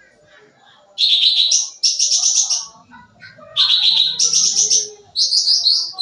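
A cucak ranting songbird singing in full, vigorous song. After a quiet first second it gives a series of loud bursts of rapid, trilled chattering notes, each half a second to a second long, with short pauses between them.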